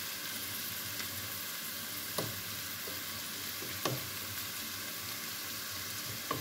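Diced onions and cubed beef sizzling steadily as they fry in a pan, stirred with a wooden spoon that knocks against the pan three times.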